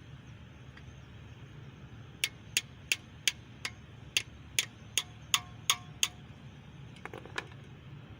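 Metal being struck with a hammer: eleven sharp blows at roughly two to three a second, several ringing briefly, then a few softer knocks near the end.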